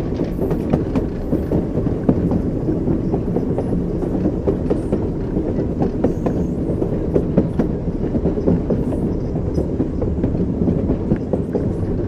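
Train wheels clattering on the rails, a steady low rumble of a moving train with many small clicks and knocks throughout.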